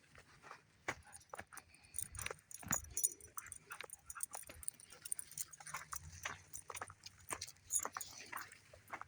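Footsteps of a person and dogs out walking: irregular crunching steps and clicks, two or three a second.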